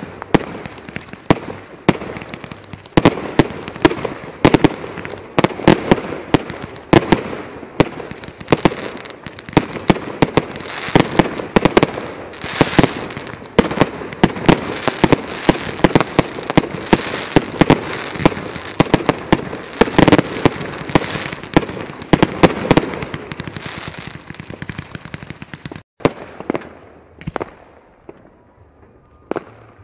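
Fireworks going off in a dense barrage: many sharp bangs over continuous crackling, thinning out to a few scattered bangs in the last few seconds.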